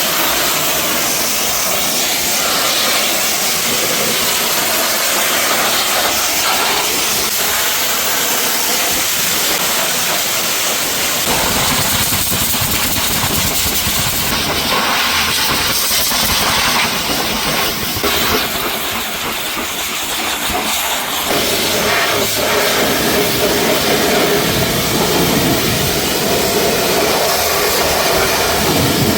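Pressure washer's high-pressure water jet spraying a car's bodywork: a steady loud hiss that changes tone a few times as the spray moves over the car.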